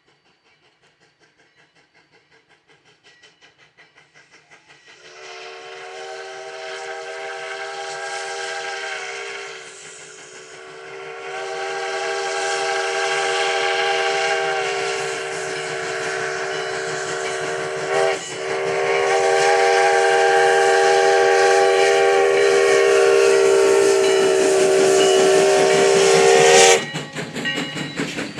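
Sierra No. 3, a 4-6-0 steam locomotive, approaches with rhythmic exhaust beats growing louder. It then sounds its whistle, several tones at once, in three long blasts, the last cutting off sharply. Rapid clattering of the passing train follows near the end.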